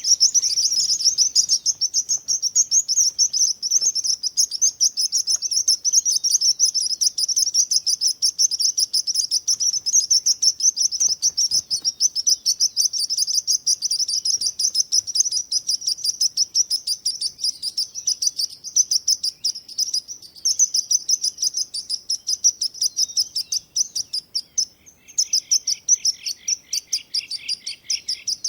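A chorus of small songbirds chirping rapidly and continuously in high-pitched, densely overlapping calls. About 25 seconds in, a lower-pitched run of chirps joins.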